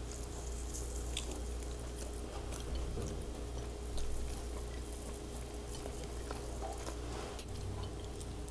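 Soft close-up chewing of a mouthful of rice and luncheon meat eaten by hand, with a few small mouth clicks, over a faint steady hum.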